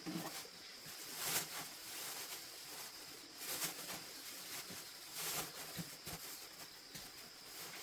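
Chickens feeding on a mash of rice and bran: irregular pecks and rustles, with a louder rustle about a second in and another near the five-second mark, over a steady high hiss.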